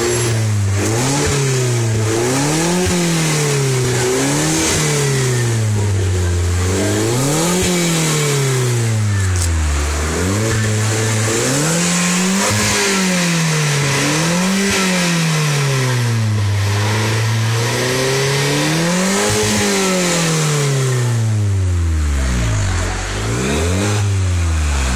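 Ford Fiesta MK7 Zetec-S 1.6-litre four-cylinder engine being revved through a decat and SUS304 stainless cat-back exhaust. There are about ten rev blips in a row, each climbing and falling back towards idle.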